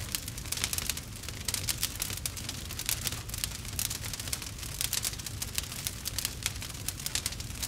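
Rain pattering on a nylon tarp: a dense, irregular run of small ticks over a low rumble.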